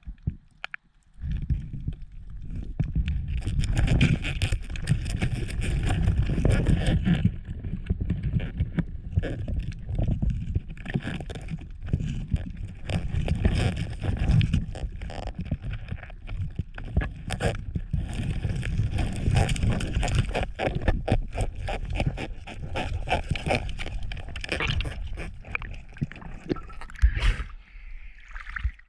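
Water sloshing and gurgling, with many small irregular knocks and clicks over a low rumble.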